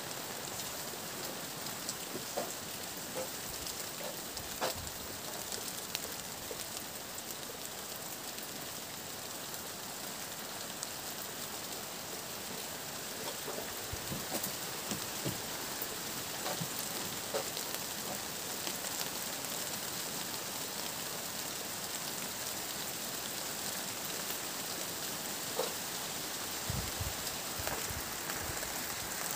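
Steady rain falling on garden plants and ground: an even hiss with scattered individual drops ticking.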